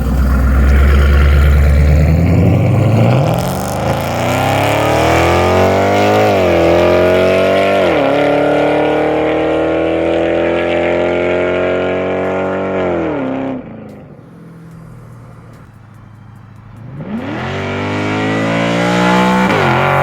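2005 Mustang GT's cammed 4.6-litre V8 through long-tube headers and a Borla Atak axle-back exhaust, accelerating hard past on a flyby. The engine note climbs through the gears with two quick drops at the shifts, cuts off suddenly, then climbs again on a second pull near the end.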